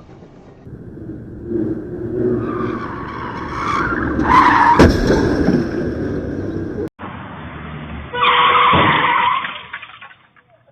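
Car road and engine noise with tyres squealing about four seconds in and a sharp impact right after, a car crash. After a brief cut, tyres squeal loudly again for about a second, then it goes quiet.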